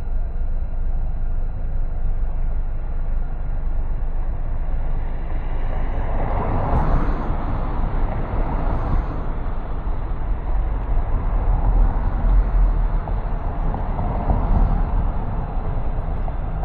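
Car driving on city streets: steady low road rumble and tyre noise, swelling a few times as the drive goes on.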